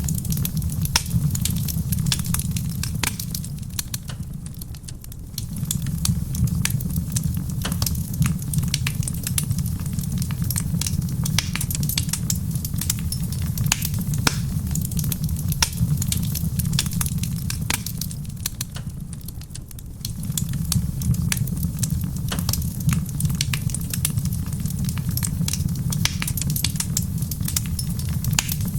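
Wood fire in a stone fireplace crackling, with frequent sharp pops and snaps over a steady low rumble, and a soft rain hiss behind it. The low rumble eases twice, around five seconds in and again near twenty seconds.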